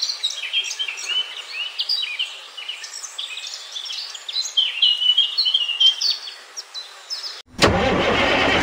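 Small birds chirping and singing in quick, overlapping calls. About seven and a half seconds in, this is abruptly replaced by a loud, steady mechanical noise.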